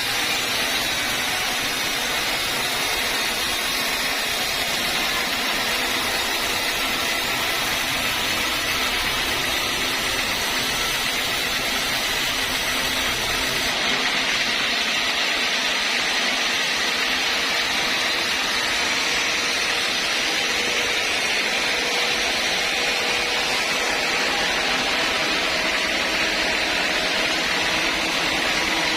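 Sawmill saw running steadily through teak wood, a constant mechanical noise with no breaks.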